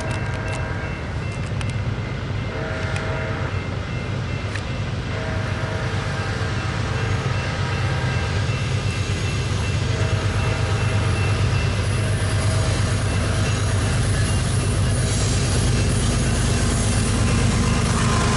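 BNSF diesel freight locomotive approaching, its rumble growing steadily louder. Its horn sounds two short chord blasts about three and five seconds in, and its electronic bell rings.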